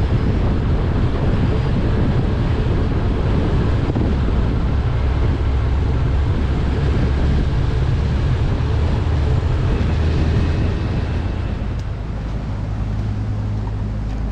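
An engine running steadily with wind noise on the microphone. About twelve seconds in it settles into a slightly quieter, more even low hum.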